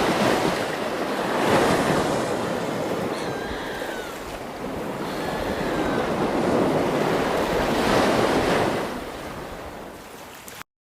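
Ocean waves surging and washing back, swelling twice and ebbing between, then fading and cutting off abruptly near the end.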